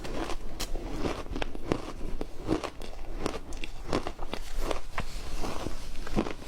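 Close-up crunching of matcha ice being bitten and chewed, many sharp cracks and crackles a second.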